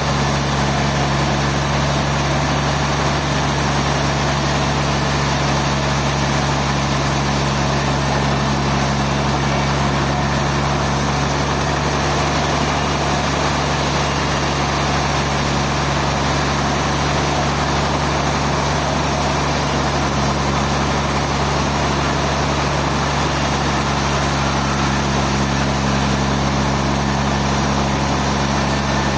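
Sawmill machinery running steadily: a constant engine-like drone with a low hum that does not change in pitch or level.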